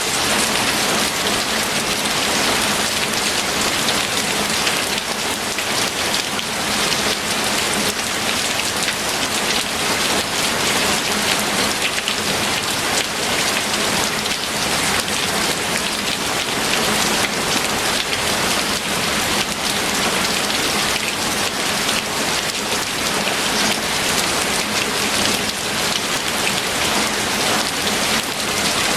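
Steady rain falling and pattering on a surface: a dense, even hiss of many drops with no let-up.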